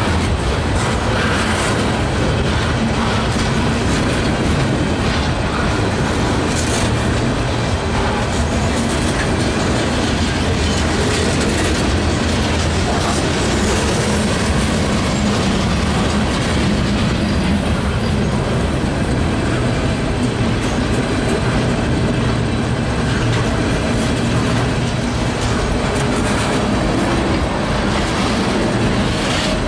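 Two-bay covered hopper cars of a freight train rolling past at close range: steel wheels running over the rail joints with a steady, loud rumble.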